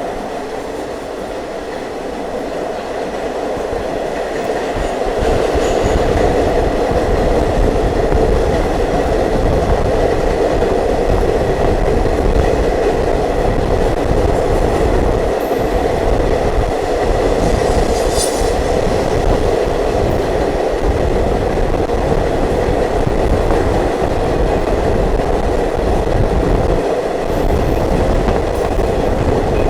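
Ride noise of an Indian Railways diesel multiple unit in motion: a steady rumble of wheels on rail with some clickety-clack, growing louder over the first few seconds. A brief high squeal of wheels on rail about 18 seconds in.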